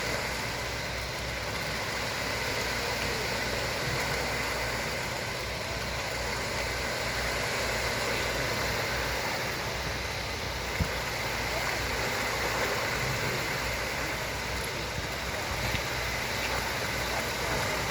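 Steady drone of the heavy truck engines and concrete pump running during a concrete pour, pumping cement mixture, with one short knock about two-thirds of the way through.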